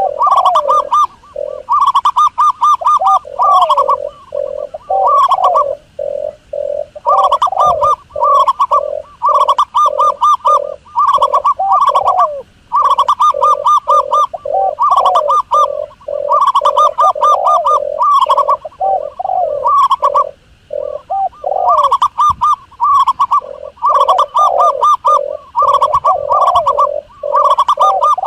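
Doves cooing in loud, rapid, rippling phrases of about one to two seconds with short gaps, more than one bird overlapping: recorded calls of the kind played as a lure for dove hunting.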